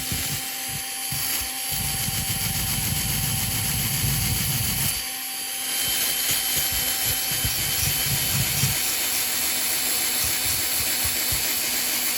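Electric drill spinning a wire wheel brush against a diecast metal casting, scrubbing off the old paint: a steady motor whine over a harsh scratching hiss.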